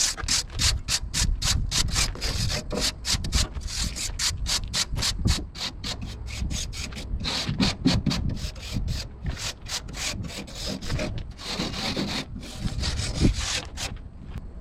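Hand-held abrasive tool scrubbed rapidly back and forth over the fender's metal, about three to four strokes a second, in runs with brief pauses, stopping shortly before the end.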